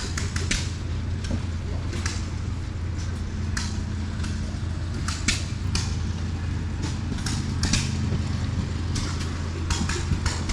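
A steady low engine hum, with irregular sharp clicks and knocks over it.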